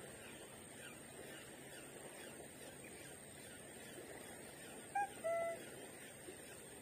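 Quiet riverside ambience with a thin, steady high-pitched tone; about five seconds in, a bird calls twice, two short pitched notes, the second a little longer.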